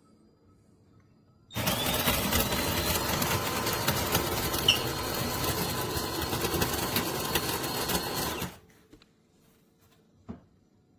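De'Longhi Rivelia's built-in grinder grinding coffee beans at the start of a latte brew: a steady, dense grinding buzz that starts about a second and a half in, runs about seven seconds and cuts off abruptly. A faint click follows near the end.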